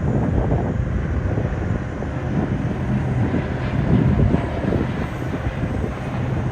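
Aircraft engine noise: a steady, loud rumble.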